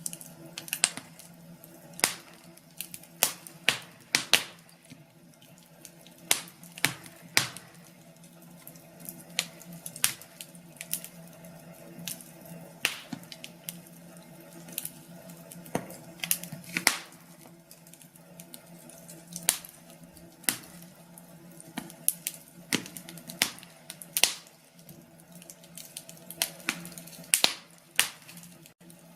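Wood fire crackling in a fireplace: irregular sharp pops and snaps, one to three a second and some much louder than others, over a faint steady hum.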